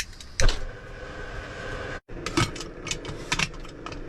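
Knocks and clinks of cooking gear being handled, with one sharper knock about half a second in and a brief steady ringing tone after it.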